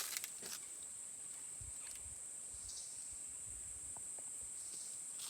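Steady high-pitched insect drone, with a few faint low thuds.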